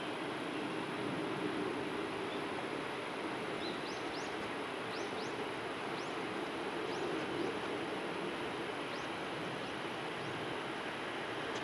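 Steady outdoor rushing noise, with short high upward chirps of a small bird scattered through it from about four seconds in.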